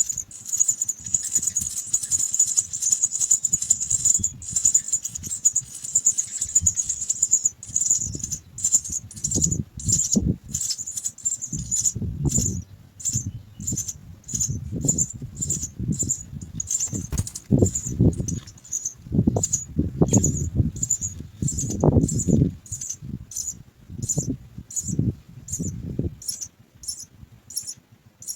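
House sparrow nestlings giving high, insistent begging calls. The calling is dense at first and then settles into a regular pulse of about two cheeps a second. From about nine seconds in it is mixed with low rustling, buffeting surges.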